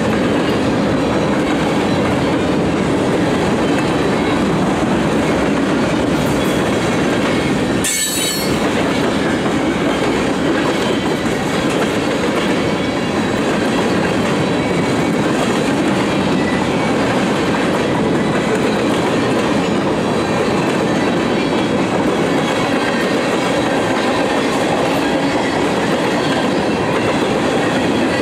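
Freight train cars rolling past, a steady rumble with the clickety-clack of wheels over rail joints. A brief high wheel squeal comes about eight seconds in.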